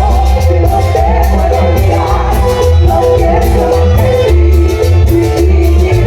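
A Latin dance band playing loud live music: heavy bass and a steady beat of crisp percussion under a melody line.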